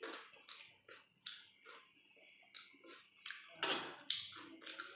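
A person chewing soft chicken curry and flatbread close to the microphone, with irregular wet mouth sounds. About three and a half seconds in comes a louder cluster of sounds as her fingers pick at the curry on the plate.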